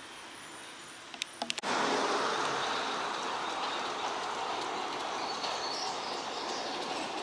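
Excursion train rolling on the rails, with no horn. A few sharp clicks come a little over a second in, then the rolling noise starts abruptly and loud and slowly eases off.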